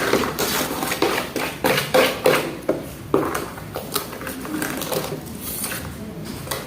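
A utensil stirring a thick batter of grated corn, sugar and powdered milk, knocking and scraping against the sides of its container in a quick, irregular series of clicks.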